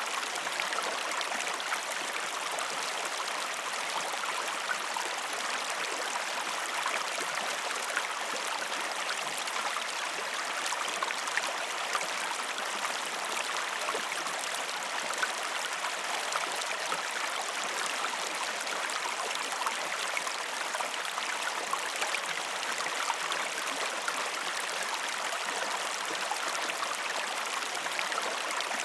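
Waterfall: a steady, unbroken rush of falling water, with small splashes scattered through it.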